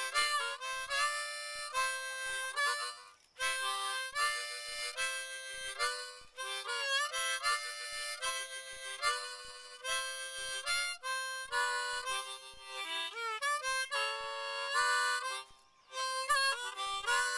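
Solo harmonica playing a tune in short phrases of chords, with a few notes bent in pitch.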